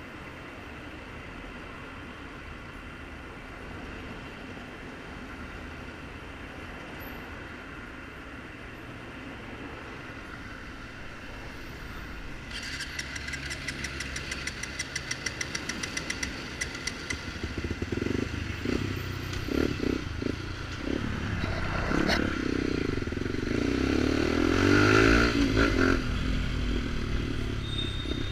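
Kawasaki Ninja motorcycle with a straight-through sport exhaust, ridden on the road. The engine runs steadily for the first half, then gets louder and more uneven as the rider gets on the throttle, loudest near the end.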